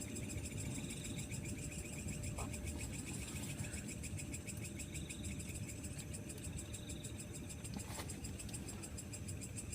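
Night insects, crickets chirring in a continuous fast high pulse, with short trills from another insect coming back every second or few. A low steady rumble runs underneath, and there is a single sharp click about eight seconds in.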